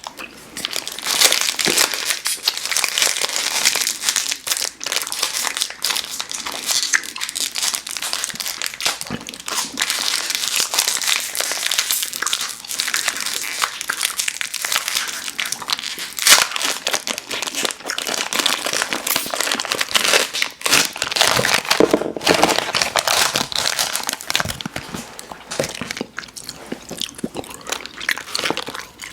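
Close-miked crinkling of candy wrappers and packaging, mixed with chewing of chewy fruit candy; a steady stream of small crackles and clicks.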